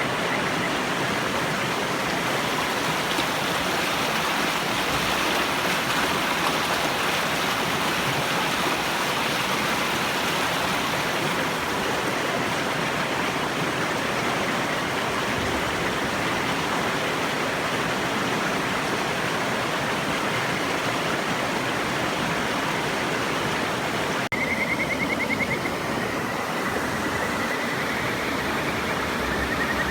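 A river rushes steadily. About three-quarters of the way in, and again near the end, a kajika frog calls over it with a high, rapidly pulsing trill, the second rising slightly in pitch.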